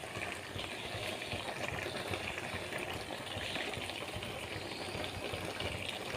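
Chicken pieces sizzling and bubbling in hot oil in a pan while being stirred, a steady frying hiss.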